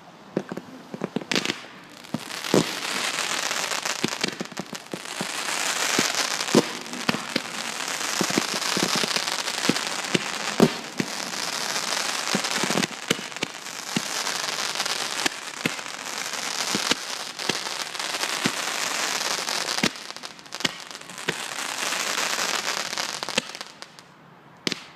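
Fireworks crackling in a dense, rain-like fizz, with many sharp bangs scattered through it, in waves that die away near the end and then one last single bang.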